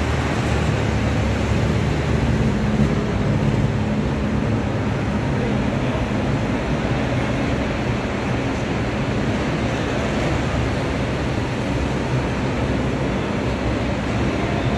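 Engines of vintage GAZ cars running steadily at low speed, a continuous low rumble.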